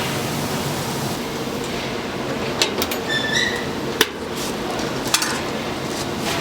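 Three sharp knocks and clinks, about a second apart, over steady background noise in the middle, with a brief high squeak just before the second.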